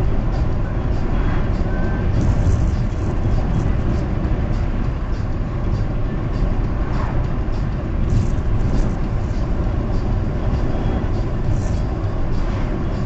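Steady road noise and engine hum of a car cruising on a highway, heard from inside the cabin.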